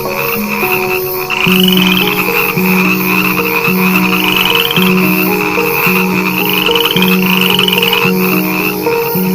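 Frog calling: a rising, rapidly pulsed trill repeated about once a second, over steady low tones that step in pitch.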